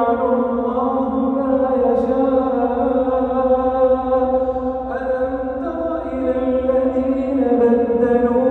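A man's voice chanting the Quran in melodic tajweed style, drawing out long held notes that step to new pitches a couple of times.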